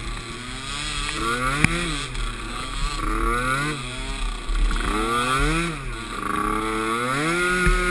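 Small youth ATV engine revving up and falling back repeatedly as the throttle is opened and closed, with a sharp knock about a second and a half in.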